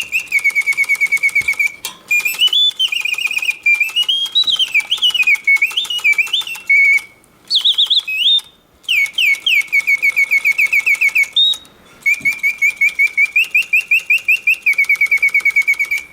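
Reuge double singing bird cage's mechanical bird song: a bellows-driven whistle sings fast warbling trills and rising and falling glides, with a few short breaks between phrases. It hits all of its oscillating notes while the mechanism runs smoothly and quietly.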